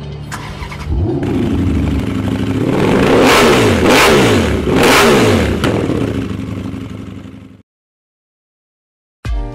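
Motorcycle engine sound effect: a steady idle, then revving with several falling-pitch pass-bys that are loudest midway, fading out about two seconds before the end.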